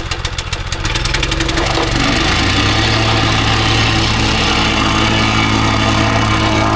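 Small engine of a plate compactor starting up. Its firing quickens over about the first two seconds, then it runs at a steady high speed.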